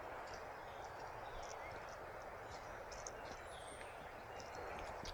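Outdoor ambience: a steady rushing hiss with many short, high bird chirps scattered through it.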